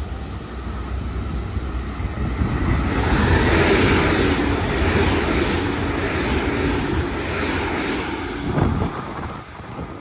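Electric passenger train running through the station at speed without stopping: the rumble and wheel-on-rail noise swell from about two seconds in, stay loud as the cars pass, and die away near the end. There is a short thump just before it fades.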